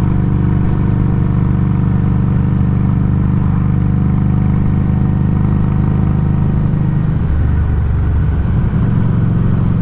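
Exhaust of a Harley-Davidson Street XG500's liquid-cooled V-twin running under way through a Firebrand Loose Cannon slip-on muffler, picked up close to the muffler. It runs steadily, wavers between about seven and nine seconds in, then settles again.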